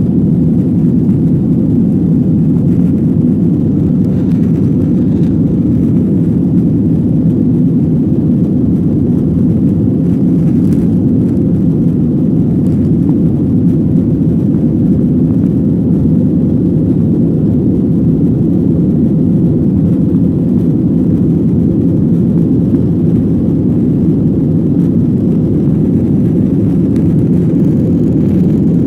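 Steady roar of a Boeing 737-800's CFM56 jet engines and rushing air, heard from inside the passenger cabin. It is loud and unchanging throughout.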